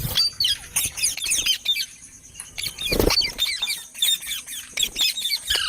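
Green parrots chirping and squawking in rapid short, high calls, with a knock about three seconds in.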